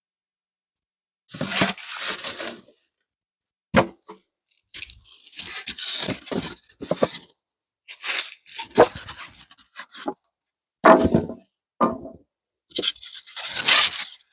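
A series of irregular bursts of scraping and rustling, like rough material being handled and moved, with short gaps between them.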